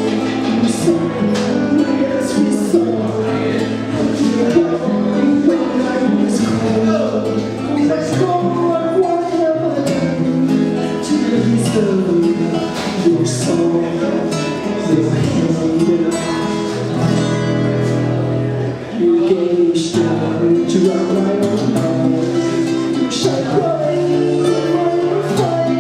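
Live acoustic guitar music, slow and continuous, part of a solo song performance.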